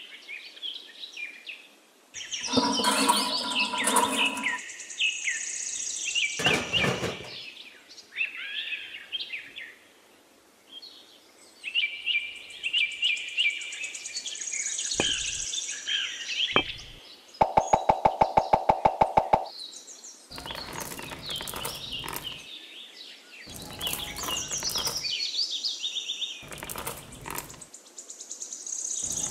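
Birds chirping, with scattered knocks and clatters. About two-thirds of the way through comes the loudest sound: a run of rapid, evenly spaced clicks, about six a second, over a steady tone, lasting about two seconds.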